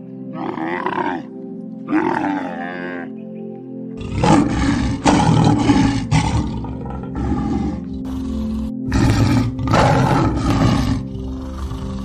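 Two short camel calls in the first three seconds, then big cats roaring in long, loud bouts from about four seconds in, all over steady background music.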